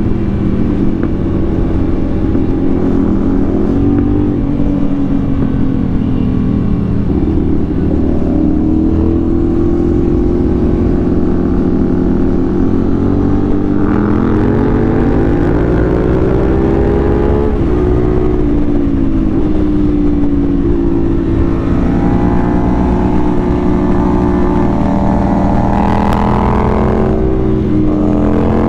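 CFMoto 450SR's parallel-twin engine under way, its note climbing slowly with the throttle and dropping sharply near the middle and again near the end, over a steady low rumble of wind.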